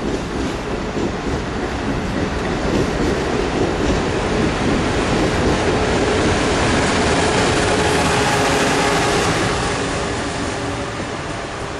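Amtrak Acela Express trainset passing close by at speed: a steady noise of wheels on rail and rushing air that grows louder, then fades near the end as the rear power car goes past.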